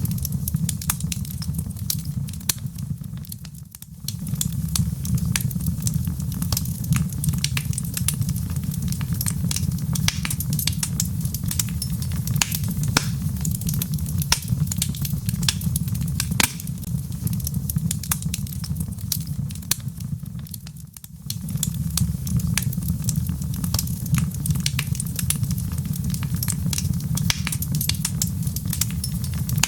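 Log fire burning in a fireplace: a steady low rumble of flame with frequent sharp crackles and pops of burning wood. The sound dips briefly twice, about three seconds in and again about twenty seconds in.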